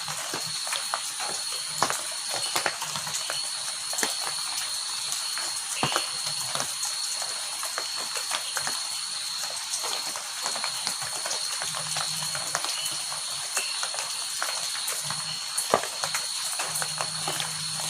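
Heavy rain falling steadily, with frequent irregular sharp taps of drops striking a hard surface.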